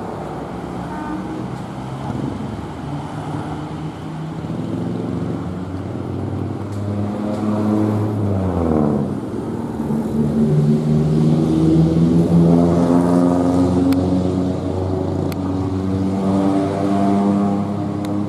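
Motor vehicle engine running close by, its pitch dropping sharply about eight to nine seconds in, then a steady engine note that grows louder.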